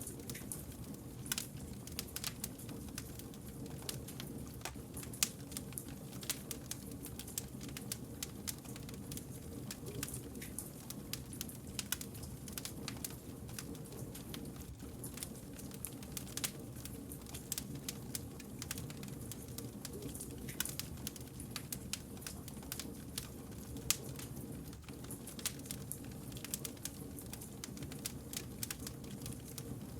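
Wood fire crackling: frequent, irregular sharp pops and snaps over a low, steady rumble of the burning logs.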